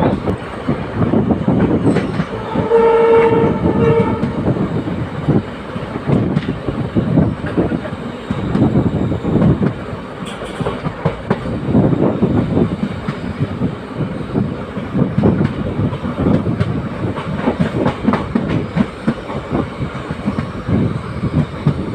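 Passenger train running, heard from onboard: steady rumble with wheels rattling and clattering over the rails, and the locomotive horn sounding once for about a second and a half, about three seconds in.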